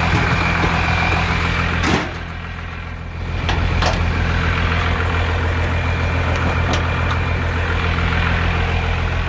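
12-valve Cummins inline-six turbo diesel idling steadily. A single sharp knock about two seconds in is followed by a brief dip in loudness, and a few faint clicks come later.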